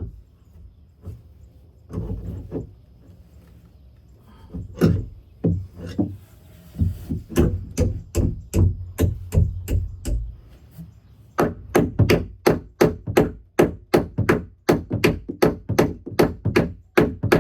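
Hammer driving a nail into a wooden roost board: separate blows at first, then a steady run of about two to three strikes a second in the second half.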